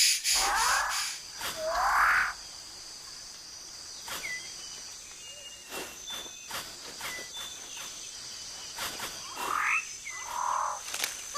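Rainforest ambience: two loud sweeping bird calls near the start and two more near the end, with short chirps in between over a steady high insect drone.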